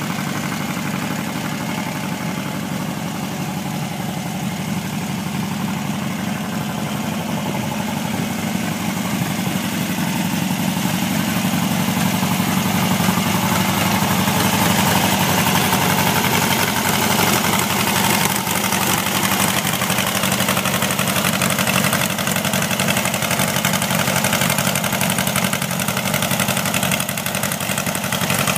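A newly installed engine running steadily on its first run. It grows somewhat louder and brighter about ten seconds in, then holds steady.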